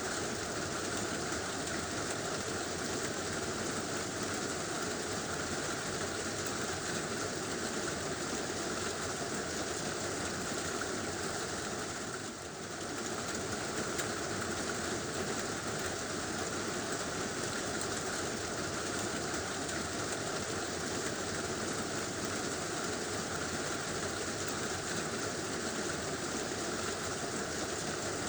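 Heavy rain drumming steadily on a tin roof, a dense even wash of sound that dips briefly about halfway through.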